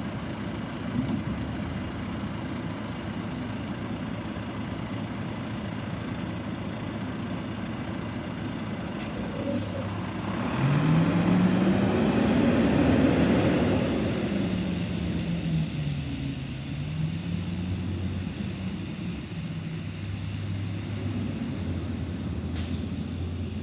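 Garbage truck engine running steadily, revving up about ten seconds in, holding a higher, wavering pitch for a few seconds, then dropping back toward idle. A couple of brief hissing clicks stand out.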